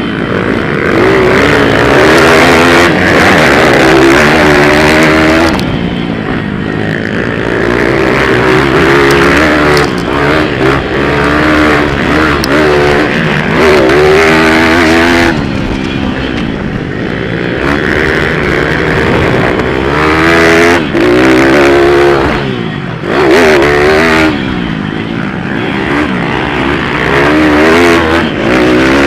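Several pit bike engines racing, loud and close, each repeatedly revving up and dropping back as riders accelerate and shut off, the sounds of the bikes overlapping as they pass.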